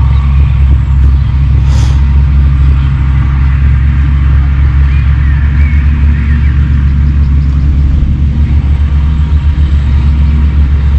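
Wind buffeting an outdoor microphone: a heavy, steady low rumble. A bird chirps faintly about halfway through.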